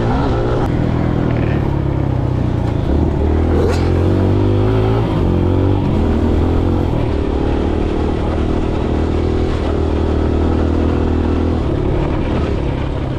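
Kawasaki KLX140G dirt bike's single-cylinder four-stroke engine running under throttle while being ridden, its pitch rising and falling as the throttle opens and closes, climbing about three seconds in and easing off around six seconds.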